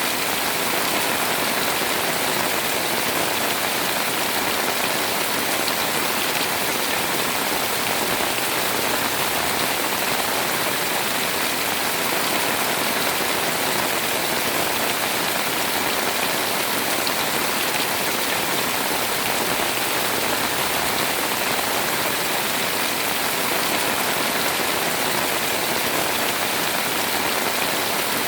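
Heavy rain pouring steadily onto a house, a dense even hiss of drops without letup.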